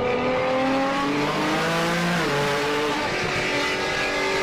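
High-powered street-racing car engine accelerating hard, its pitch climbing, then dropping with an upshift about two seconds in before climbing again.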